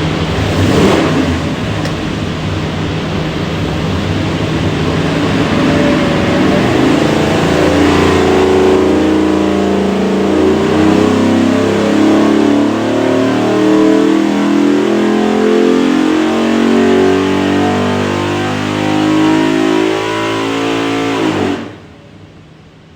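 392 cubic-inch Gen III Hemi V8 with Holley EFI running on an engine dyno: it holds a steady speed, then climbs steadily in revs under load in a power pull, and cuts back abruptly near the end.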